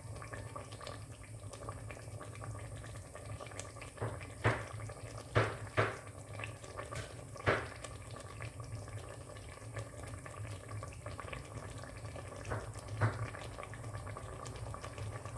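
Pieces of butternut squash and a utensil knocking into a ceramic slow cooker pot: a handful of short knocks, bunched in the middle and two more near the end, over a steady low hum.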